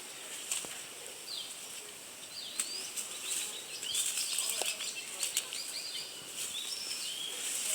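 Birds chirping repeatedly in short rising and falling calls, over a steady high-pitched hiss.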